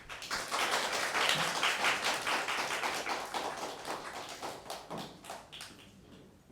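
Audience applauding, starting together and dying away over the last couple of seconds.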